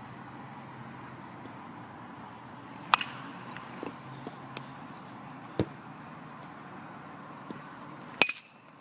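A bat hitting pitched balls during batting practice: two sharp cracks about five seconds apart, each with a brief ring, with a few lighter knocks and a duller thud in between.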